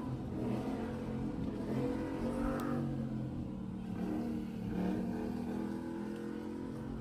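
Car engine revving hard, its pitch rising and falling as the car is driven aggressively.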